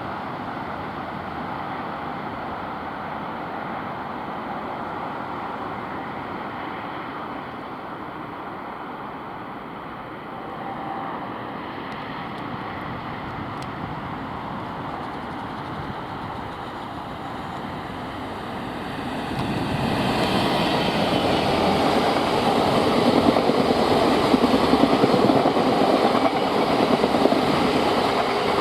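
A train running on the rails, its rumble rising to a louder, fuller sound about two-thirds of the way through as it draws nearer.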